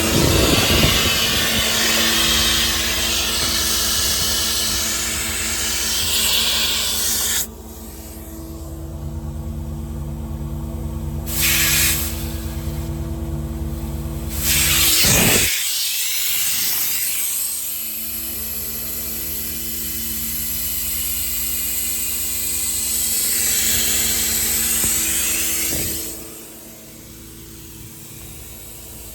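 Compressed air hissing loudly from the service truck's air compressor system, in three spells that start and stop sharply: a long one of about seven seconds, a short one about eleven seconds in, and another long one from about fourteen to twenty-six seconds. A steady machine hum runs underneath.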